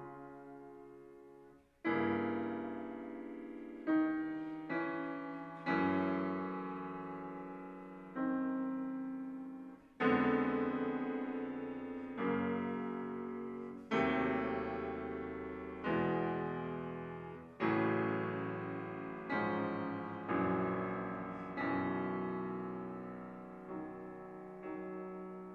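Solo piano playing slow chords, each struck and left to ring and fade before the next, roughly one every two seconds.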